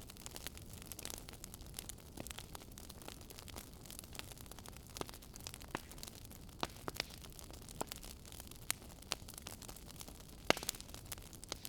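Wood fire crackling in a fireplace: irregular sharp pops and snaps over a soft hiss of burning, the loudest pop about ten seconds in.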